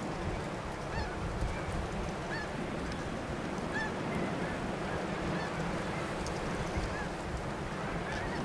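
Snow geese honking: many short, high yelping calls scattered through, over a steady rushing noise.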